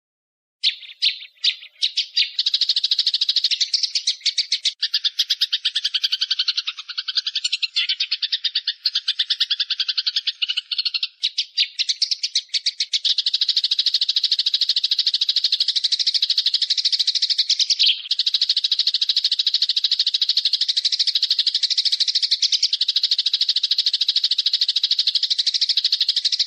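A small songbird's fast, rattling trill of high notes, many per second, repeated on and on with only brief breaks.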